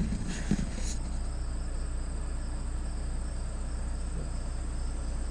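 Outdoor insect chorus, crickets trilling steadily in a high, continuous drone, with a few knocks and rustles in the first second and a low steady rumble beneath.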